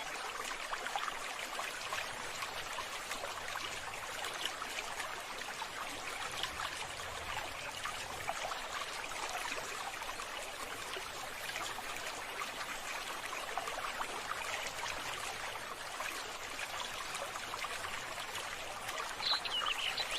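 Steady running water, a continuous trickling hiss.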